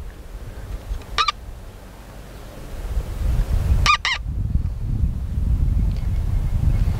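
A bird gives three short honking calls, one about a second in and a quick pair near four seconds, over a low rumble that gets louder from about three seconds in.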